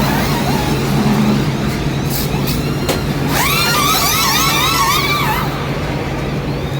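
NASCAR race truck engines during a pit stop, a loud steady drone. Short hisses come about two seconds in and a sharp click just before three seconds, then for about two seconds there is a cluster of high whines that rise and fall.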